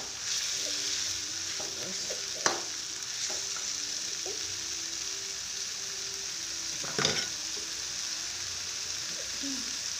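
Chopped chili paste sizzling in hot oil in a wok while a metal spatula stirs and scrapes it, with a steady hiss. The spatula knocks sharply against the wok twice, the louder knock about two thirds of the way through.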